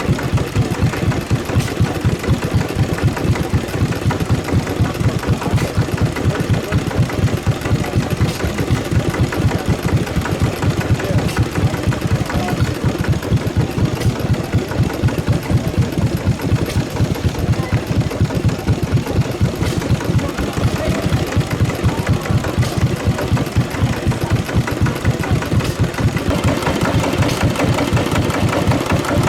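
Slavia 5 hp single-cylinder stationary diesel engine running steadily with a rapid, even beat. Near the end its sound grows a little louder and fuller.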